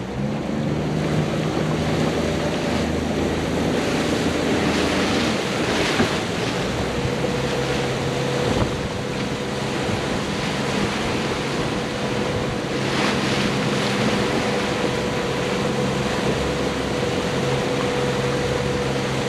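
Motorboat engine running steadily while water rushes and splashes past the hull, with wind buffeting the microphone. The engine note changes about six seconds in, and short splashes are heard around six and thirteen seconds.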